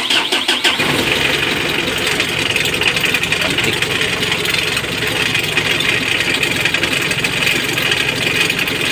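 Mitsubishi L300 diesel engine cranking briefly and catching within about a second, then idling steadily. It starts promptly now that the loose glow-plug heater wire has been tightened, curing its hard starting.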